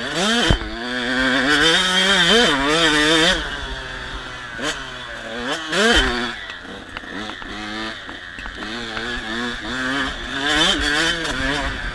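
KTM 85 SX two-stroke motocross bike engine being ridden hard, revving up sharply and falling back again and again as the throttle is opened and shut, with a few low thumps.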